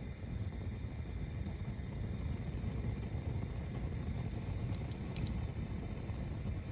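Log-tower bonfire burning: a low steady rumble with a few faint crackles, the sharpest pair about five seconds in.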